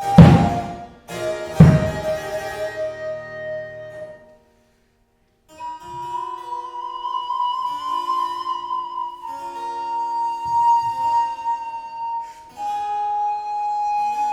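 Baroque chamber music. A few loud struck chords ring out and die away, then after a short silence a recorder plays long held notes over harpsichord, with a low sustained line beneath.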